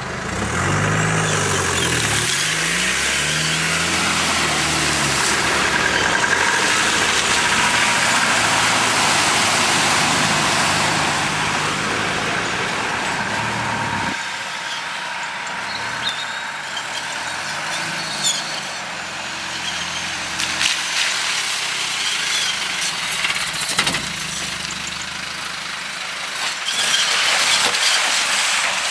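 Land Rover Discovery's engine revving up and down as the 4x4 drives off-road through mud and water, over a loud rushing noise. About halfway through it drops to a quieter, steadier run with scattered knocks.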